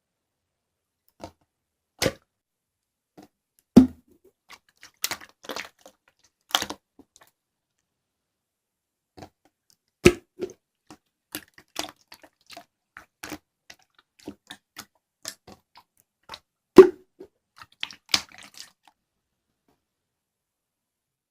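Slime being pressed and stretched by hand: irregular sharp clicks and pops of air pockets bursting, a few of them much louder than the rest.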